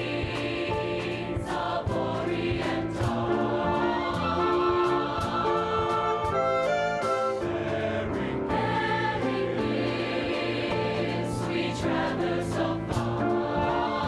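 Choir singing with instrumental accompaniment, held notes sung in chords.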